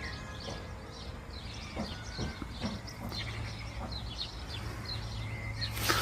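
Birds chirping and calling, many short high chirps over a low steady rumble, with a short rush of noise near the end.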